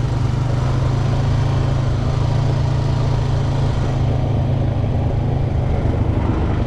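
Off-road vehicle's engine running steadily while riding a trail.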